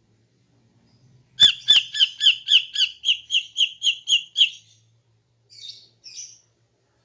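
A female green leafbird (cucak ijo) calls a rapid string of about a dozen sharp, slightly falling notes, about four a second, starting about a second and a half in. Two softer, rougher calls follow near the end.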